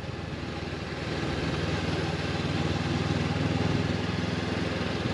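Honda CB500X's parallel-twin engine running steadily while riding, with wind and road noise; the engine grows louder about a second in.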